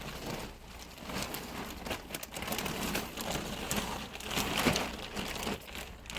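Plastic sheeting crinkling and rustling in uneven bursts, with many small crackles and a louder stretch in the middle.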